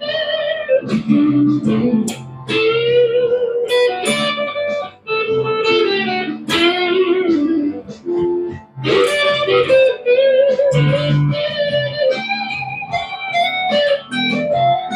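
Harley Benton SC-550 electric guitar played as a test of its repaired headstock: a lead line of sustained single notes with wavering vibrato and bends, broken by a few short pauses.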